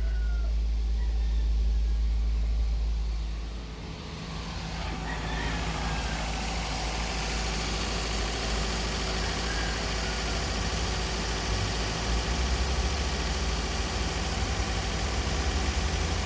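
Toyota Vios four-cylinder petrol engine idling high at around 1,500 RPM while warming up from a fresh start, running evenly with no choking. About four seconds in the deep hum eases and a steadier hiss takes over.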